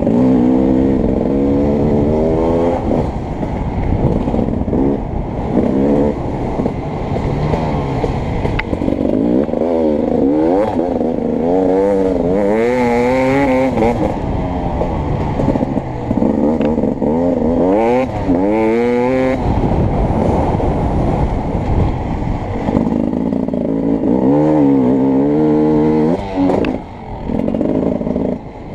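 Beta 300RX two-stroke dirt bike engine being ridden hard, its pitch rising and falling again and again as the throttle is opened and closed through the gears. A rattling clatter runs under the engine note.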